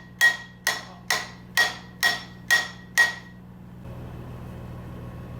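Seven ringing hammer blows on steel, about two a second, stopping about three seconds in: a pin being driven into the lined-up holes of a trailer boom. An engine idles steadily underneath.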